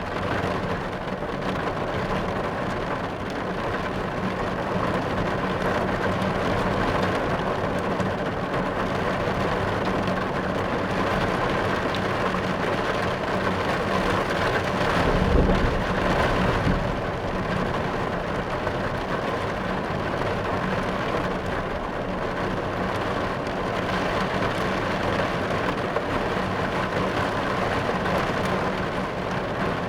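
Steady rain on a car's roof and windows, heard from inside the car, with a low rumble of thunder swelling about halfway through.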